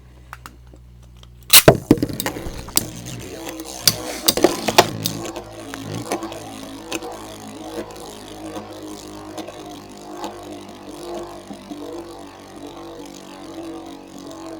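Two Beyblade Metal Fusion tops, Earth Eagle 145WD and Lightning L-Drago 100HF, launched into a battle: a burst of loud clicks and clacks starts about a second and a half in. Then the two spinning metal tops make a steady whirring hum with occasional small clacks as they collide.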